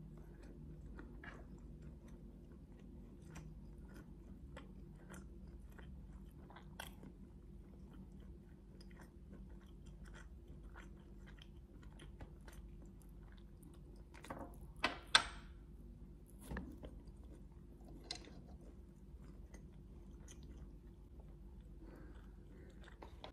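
Close-up chewing of grilled chicken satay: many soft wet mouth clicks and smacks, with a few louder clicks a little past the middle, over a low steady hum.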